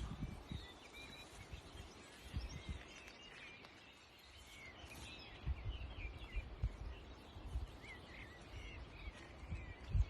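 Small birds chirping faintly, many short rising and falling chirps, over an uneven low rumble with a few dull thumps.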